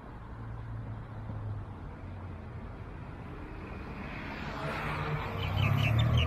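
A motor vehicle approaching, its noise swelling steadily towards the end, over a low steady hum. In the last second a small bird starts chirping rapidly.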